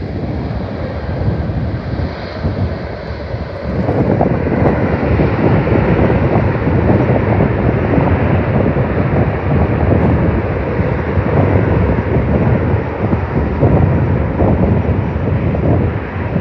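Jet airliner engines rumbling as the plane passes, growing louder about four seconds in, with wind buffeting the microphone.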